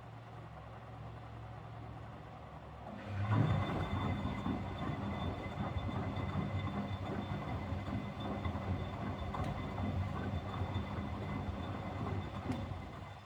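Miele Deluxe-Electronic W761 washing machine on a 95° cotton wash: a low hum, then about three seconds in the drum motor starts and turns the drum for about ten seconds with a steady whine and tumbling noise, stopping just before the end. The owner says the motor bearings can easily be heard to be somewhat noisy.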